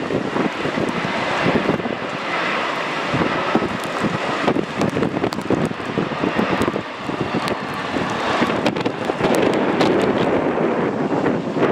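Jet airliner engines on landing approach, heard through strong gusty wind buffeting and crackling on the microphone.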